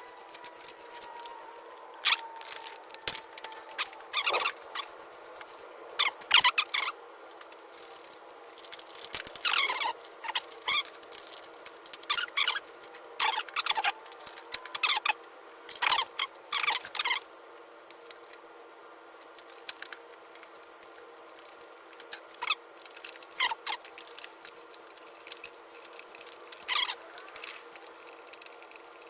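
Intermittent scratchy rubbing and short squeaks of hands working a lawn mower's nylon starter rope and recoil starter parts, coming in irregular clusters with pauses between.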